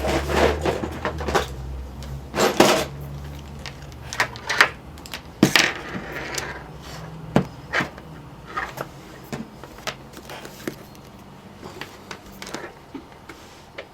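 Irregular clicks, taps and light clatter of hands handling a voltmeter, its probes and the laptop adapter's plug and wires on a desk, over a low hum that fades out about halfway through.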